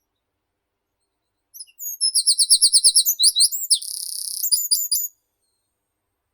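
A songbird sings one phrase of about three and a half seconds: a quick series of rising high notes, then a short buzzy stretch and a few closing notes.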